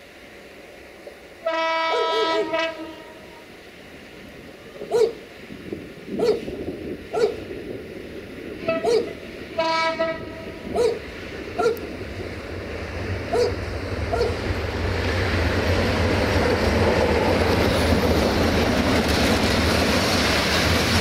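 A train horn sounds one blast of about a second, then a shorter second blast near the middle. Between the blasts, wheels knock over rail joints in an uneven clatter, some knocks in pairs. The train's rumble then swells steadily as it draws close.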